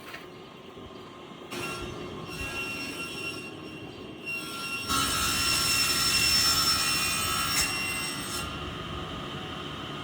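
A machine running with a high-pitched whine over a hiss, growing much louder about five seconds in and easing back near the end.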